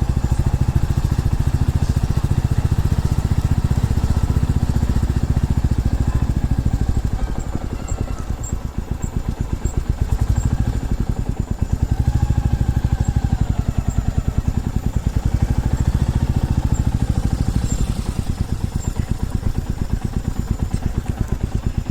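Single-cylinder motorcycle engine running with a steady, even beat, easing off twice before pulling again.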